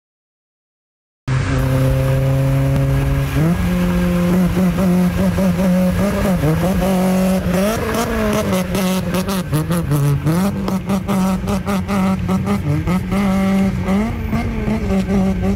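Car engine running loud at high revs. It holds one pitch, steps up about two seconds after it starts, then wavers up and down. It begins after about a second of silence.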